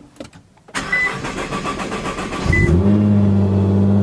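Nissan GT-R cold start: the starter cranks quickly for about two seconds, then the engine catches and flares up into a steady high idle. Two short high beeps sound during the cranking.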